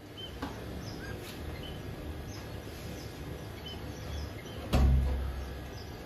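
Faint, scattered chirps of small birds over steady background noise, with one heavy low thump a little before the end.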